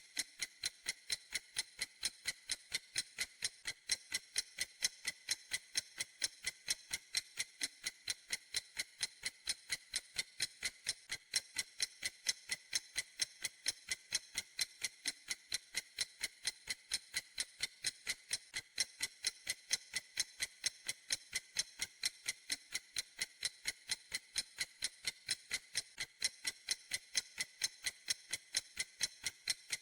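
Clock ticking steadily in an even, quick rhythm, roughly three sharp, high-pitched ticks a second, every tick the same.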